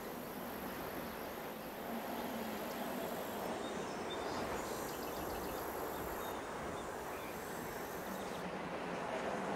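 Steady outdoor ambient noise: an even, wind-like hiss with no distinct events.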